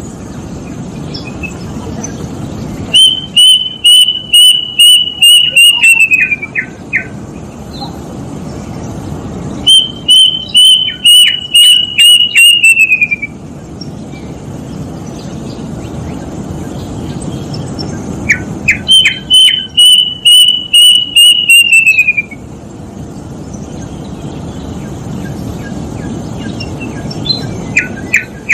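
Kedasih (plaintive cuckoo) singing: three long phrases, each a run of about ten loud, evenly spaced whistled notes at one pitch, the last ones sliding downward and ending in a few short, lower notes. A fourth phrase starts near the end, over a steady low background hum.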